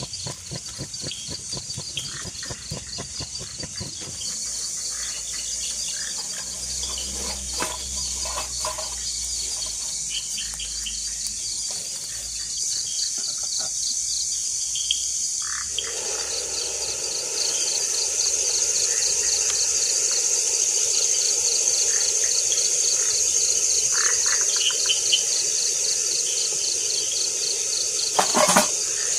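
Forest insect chorus: crickets trilling in a fast, even pulse over a high steady hiss of other insects, with frogs calling. About halfway through a lower steady hum joins and the chorus grows louder, and there is a single knock near the end.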